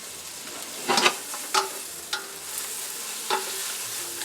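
Shallots and cremini mushrooms sizzling in butter in a stainless steel pan, with a cooking utensil knocking against the pan four times as they are stirred.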